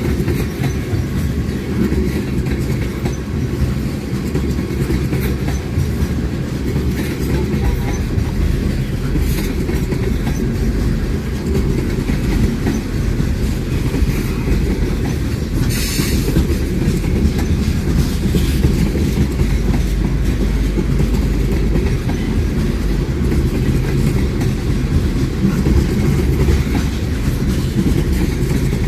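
Railroad cars of a passing train rolling on the rails, a steady heavy rumble with the wheels clacking over the track. About 16 seconds in there is a brief sharp high-pitched noise from the train.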